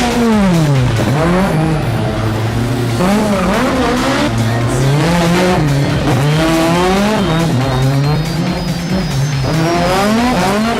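Racing car engines revving, their pitch repeatedly climbing and dropping as the throttle opens and closes.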